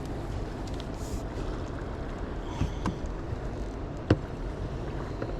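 Steady low rumble of outdoor background noise, likely river current, wind or a boat motor, with a few sharp knocks or clicks. Two small ones come at about two and a half and three seconds, and a louder one just after four seconds.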